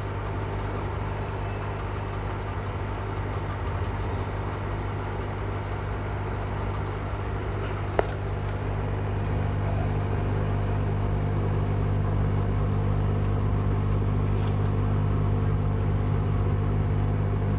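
Hot-air rework blower running steadily, a fan hum with a low drone that gets slightly louder about ten seconds in. A single sharp click about eight seconds in.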